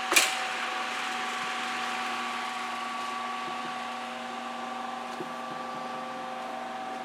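Windmere DF-12 table fan running on high: a steady rush of air from the blades over a pronounced electrical hum from the motor. A single sharp click just after the start.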